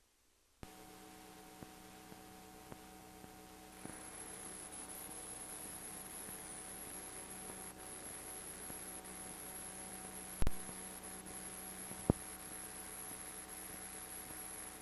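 Steady electrical hum with hiss. A high, thin whine joins about four seconds in, and there are a few small clicks early on plus two sharper clicks near the end.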